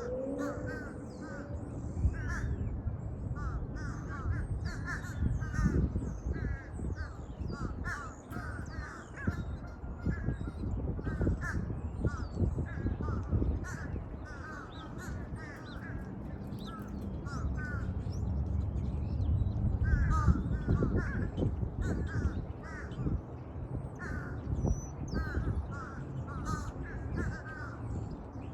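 Crows cawing repeatedly over a steady low rumble.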